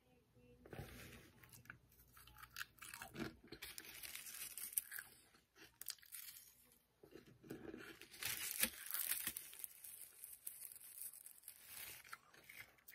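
Close-up crunching and chewing of barbecue potato chips eaten with vanilla ice cream, in irregular crackly bites, loudest about a third of the way in and again past halfway.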